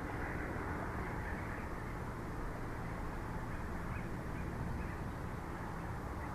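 Steady wind rumbling and hissing on the outdoor microphone of a bald eagle nest camera, with a few faint bird calls in it.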